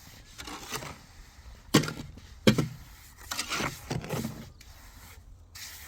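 Scraping and rubbing sounds with two sharp knocks, the second about a second after the first, like hand tools being worked on building material.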